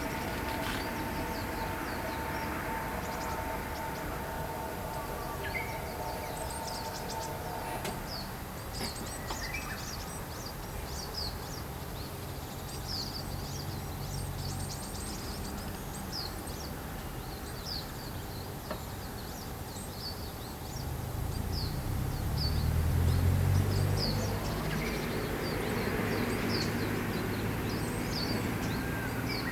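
Many short, high bird chirps repeating throughout over an outdoor background of traffic rumble. A steady hum drops out about a quarter of the way in, and the rumble swells to its loudest a little past two-thirds through.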